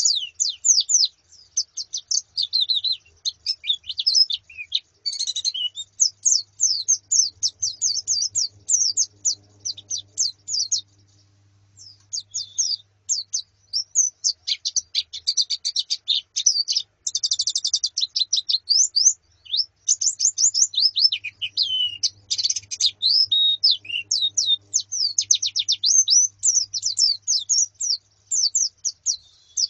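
Pleci (white-eyes), a female and a flock, chirping and twittering: quick high notes in dense overlapping runs, with a short lull about eleven seconds in.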